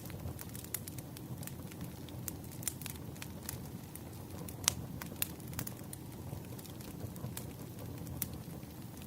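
Burning firewood crackling: irregular sharp pops and snaps over a steady low rush of the fire, with one louder pop about halfway through.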